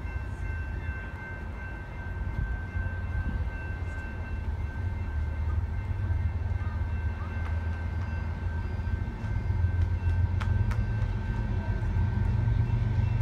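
Approaching BNSF freight train's diesel locomotives: a low rumble that grows steadily louder as the train draws closer.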